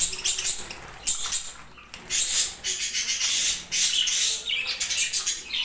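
Budgerigars chattering and squawking: a dense run of harsh, high-pitched calls that come in bursts.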